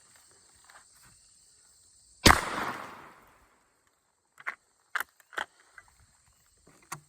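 A single shot from a 20-gauge Harrington & Richardson Topper Jr. break-action shotgun firing a 7.5 birdshot reload, about two seconds in, with a short tail of echo. A few seconds later come several sharp clicks as the action is opened and the spent hull, which sticks, is worked out.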